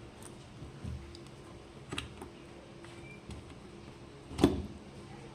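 A few sharp clicks and knocks from parts and tools being handled, the loudest a solid knock about four and a half seconds in, over a steady low hum.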